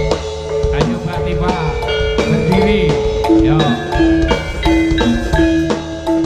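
Javanese gamelan-style music for a jaranan horse dance: struck metal mallet instruments ring out a run of notes over drums, with a wavering, held melody line in the middle.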